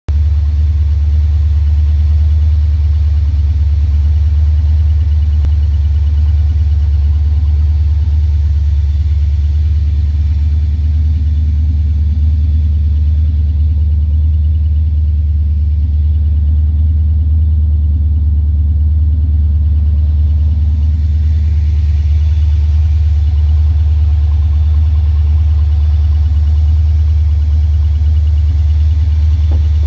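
Ford V8 of a Lincoln Mark IV, with a chrome four-barrel carburetor, idling steadily and evenly, heard close up in the engine bay. It runs smoothly on its first run after standing for over a year, with its choke not hooked up.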